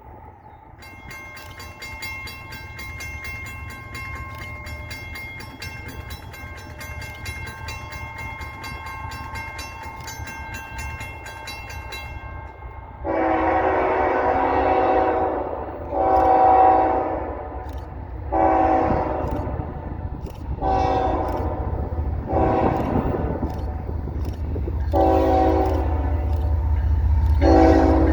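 Freight locomotive horn sounding a series of loud long and short blasts over the low rumble of an approaching train, which grows louder toward the end. For the first twelve seconds, before the horn starts, a bell rings steadily.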